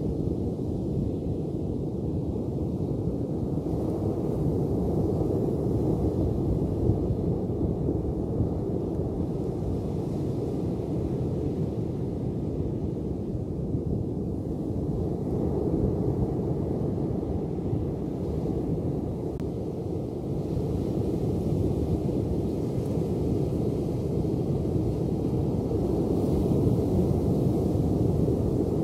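Ocean surf: a steady, low rush of breaking waves that slowly swells and eases.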